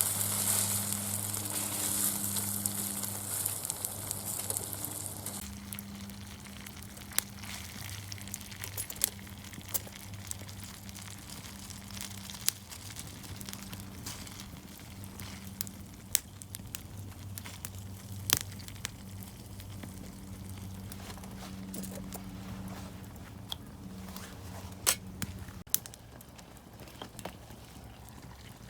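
Food sizzling in an iron frying pan over a wood fire for about the first five seconds, then stopping. After that, the wood fire crackles with scattered sharp pops.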